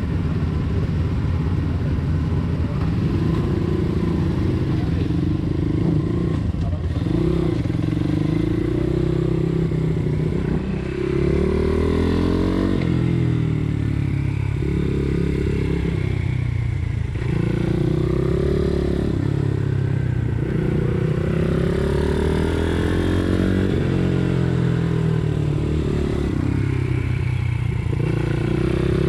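Pit bike's single-cylinder engine being ridden hard, revving up and dropping back again and again, its pitch rising and falling every couple of seconds.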